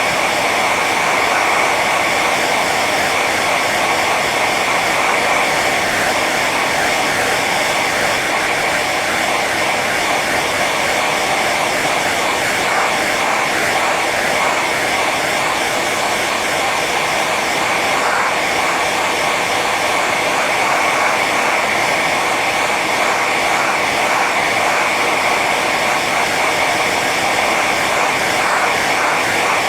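Handheld hair dryer running steadily on its high setting: a constant rush of blown air with a steady high whine from the fan motor.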